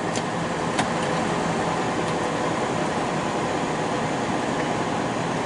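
Semi truck's engine and road noise heard from inside the cab, a steady drone while climbing a mountain pass, with two faint clicks in the first second.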